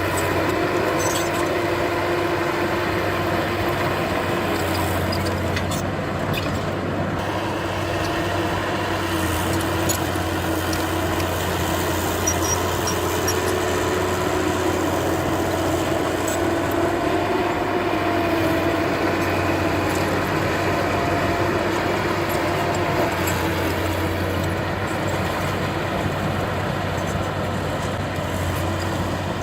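Heavy earthmoving machinery's diesel engine running steadily under work, its hum wavering slightly in pitch.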